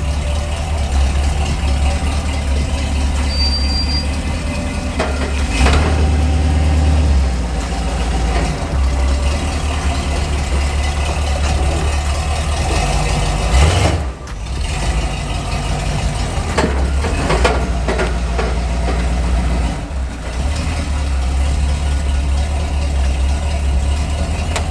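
Lifted pickup truck's engine running with a steady low drone, dropping off briefly about 14 seconds in.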